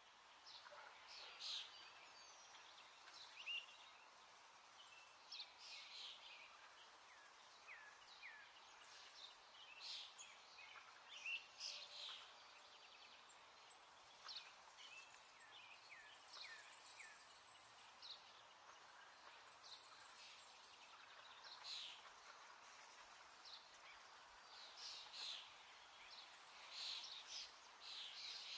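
Faint birdsong: many short high chirps and quick gliding calls from several birds, over a steady faint hiss.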